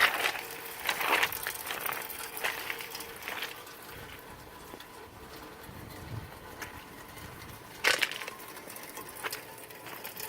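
Irregular footsteps crunching over loose rocks: several steps in the first few seconds, then a quieter stretch and another step about eight seconds in.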